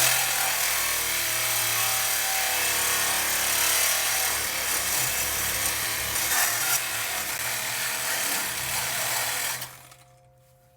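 Power saw, most likely a reciprocating saw, cutting through a steel exhaust pipe at the collector. The pipe is double-walled, which makes it slow and tough to cut. The rasping cut runs steadily and stops suddenly about a second before the end.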